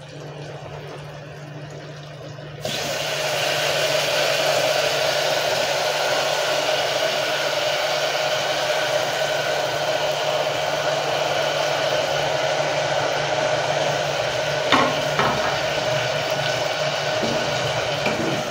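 Chopped tomatoes and onions frying in hot oil in an aluminium pressure cooker, a steady sizzling hiss that starts abruptly a few seconds in, with a low hum underneath and a couple of light knocks near the end. The tomatoes are being softened in oil without water.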